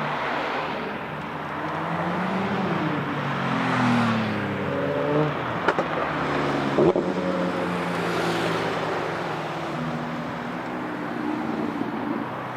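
Sports car engines on a race circuit, passing by with their pitch rising and falling as they accelerate and lift. A few sharp cracks come near the middle.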